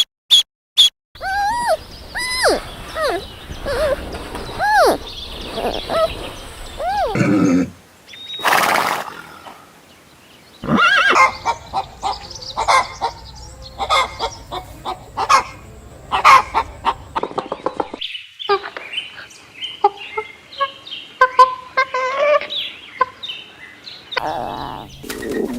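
Domestic fowl calling in a string of short clips cut one after another: first a run of repeated rising-and-falling calls, then a stretch of many short sharp sounds mixed with calls.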